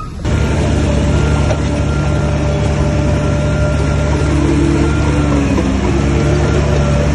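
Heavy diesel engine of earthmoving machinery running steadily, cutting in abruptly just after the start, its note shifting briefly past the middle.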